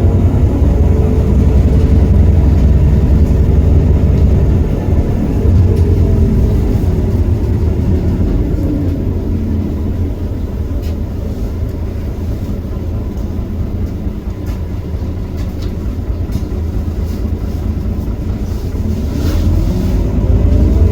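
Heuliez GX327 city bus's Iveco Cursor 8 six-cylinder diesel pulling under load, then easing off with its pitch falling into a quieter run. Near the end it revs up again with rising pitch and loudness as a kickdown drops the ZF Ecomat automatic gearbox down a gear for hard acceleration.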